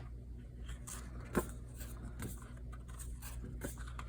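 Faint handling of a handmade paper journal, its pages moved and turned, with one short sharp click about a second and a half in and a few softer ones, over a steady low hum.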